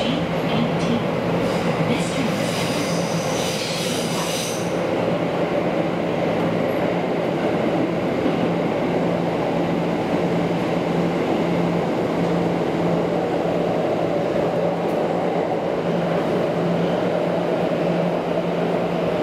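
Electric commuter train running, heard from inside the carriage: a steady rumble of wheels on the track with a constant low hum. A brief high-pitched whine rises over it about two to four seconds in.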